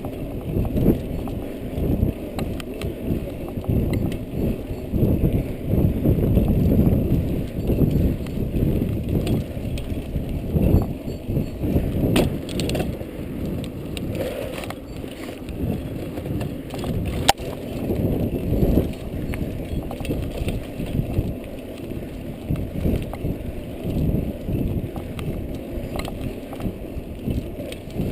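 Irregular rumbling and rattling of a ride over a rough forest track, with scattered knocks and clicks, picked up by a camera mounted on the vehicle.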